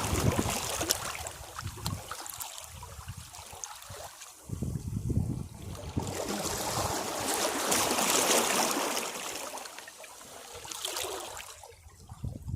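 Sea waves washing against rocks, each surge swelling and then draining back off the rocks with trickling and fizzing. Surges come a little after four seconds and again near the end, with quieter draining between them.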